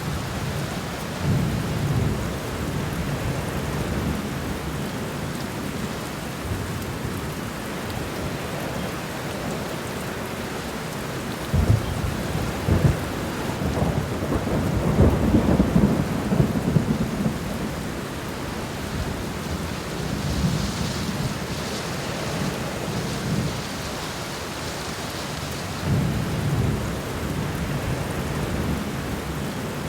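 Steady rain falling on the ground in a garden, an even hiss throughout. Low rumbles swell up several times, the loudest and longest about halfway through.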